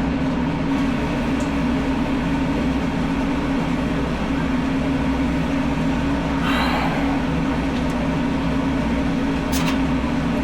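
Loud, steady mechanical drone of running machinery, with a few sharp clicks near the end.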